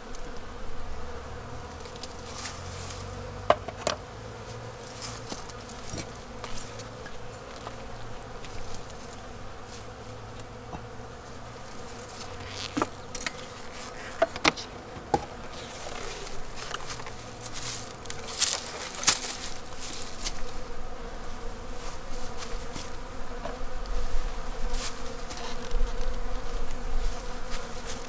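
A colony of honeybees buzzing steadily at an open hive, the first inspection of the season, with a few sharp clicks and knocks from the hive being worked.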